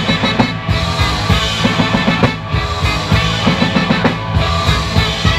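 Live rock band playing an instrumental passage between vocal lines, with drum kit, bass and guitar.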